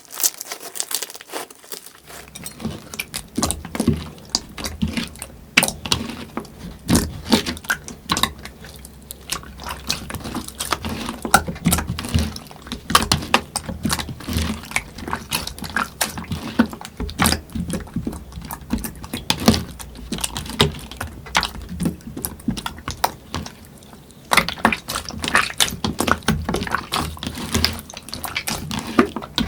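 Slime being worked by hand, a dense run of small wet clicks, pops and crackles, with a low rumble from about two seconds in.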